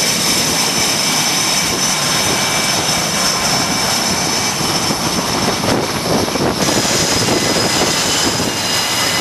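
Loud, steady jet aircraft engine noise on a carrier flight deck: a dense rush with a high-pitched whine over it, typical of F/A-18s being run up and launched.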